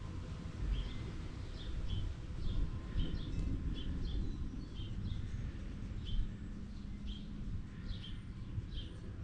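A bird chirping over and over in short high notes, about one or two a second, over a steady low rumble.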